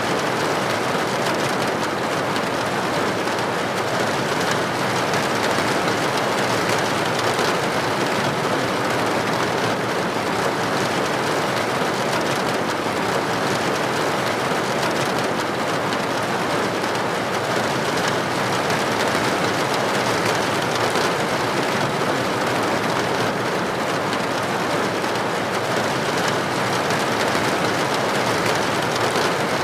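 Steady rain pattering on a surface: a dense, even hiss that does not change in level or let up.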